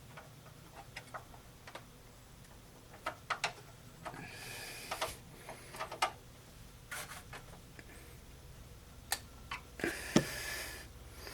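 Scattered small clicks and ticks of a screwdriver turning the graphics card's bracket screws into a PC case, screws that are close to stripped, with a few short breaths in between.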